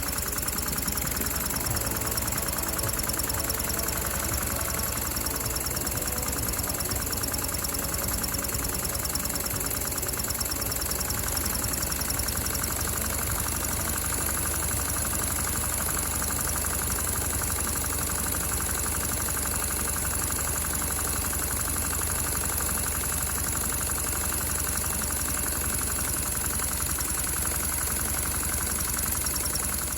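LEGO overhead-valve vacuum engine running steadily, its plastic crank, rods and valves clattering in a fast, even rhythm over a steady high hiss.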